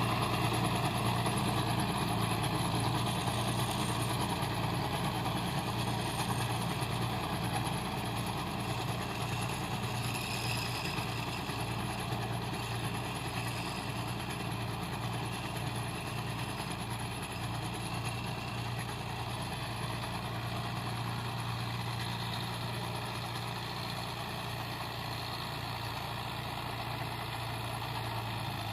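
Tractor diesel engine running steadily, its low hum slowly growing quieter.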